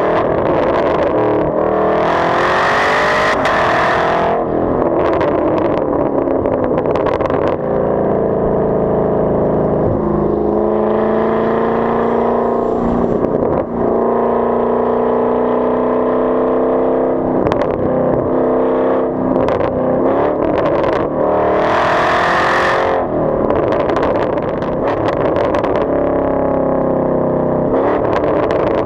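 2019 Camaro SS's 6.2-litre V8 exhaust, running with the muffler and secondary catalytic converters removed, while the car is driven: the engine note rises and falls in pitch as it accelerates and eases off. Two short spells of hiss come in, one a couple of seconds in and one past the middle.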